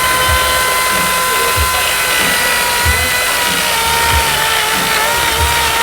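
Makita XCU03 cordless brushless chainsaw running at full speed, a steady high whine. The pitch sags slightly through the middle as the chain bites into the cut.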